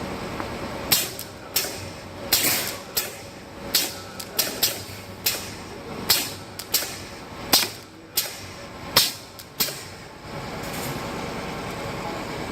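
A run of sharp knocks and clacks at irregular intervals, about fifteen in all over some nine seconds, against a steady mechanical hum.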